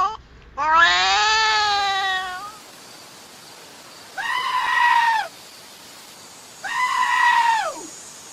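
A long, wavering animal cry, then two loud, pitched animal calls of about a second each, roughly two seconds apart, each falling in pitch at its end.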